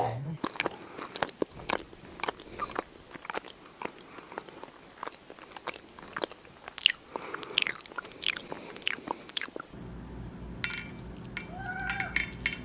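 A pet chewing and crunching food, with many irregular crisp crunches. Near the end the crunching gives way to a steady low hum with a few short pitched sounds.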